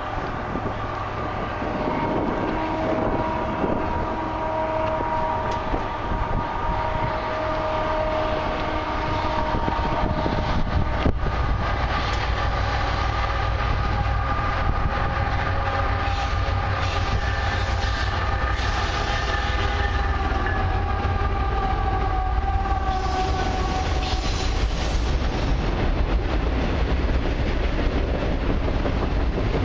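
Diesel freight locomotive's air horn blowing a long multi-note chord as the train approaches, dropping slightly in pitch as it passes a little past two-thirds of the way through. Underneath, the rumble of the locomotives and rolling cars grows louder and carries on after the horn stops.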